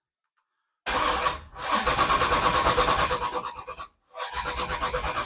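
Race car engine with open headers starting up loud: it catches about a second in, runs with a fast even pulse, cuts out for a moment just before four seconds and fires again. The owner had warned that a voltage drop might make it die.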